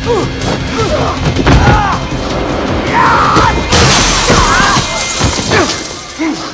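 Movie fight-scene soundtrack: rapid punches and body impacts with grunts and pained cries, over dramatic action music. There is a loud crash about four seconds in.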